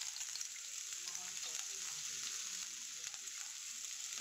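Chopped ginger and garlic sizzling in a little hot oil in a wok: a steady frying hiss with fine crackling.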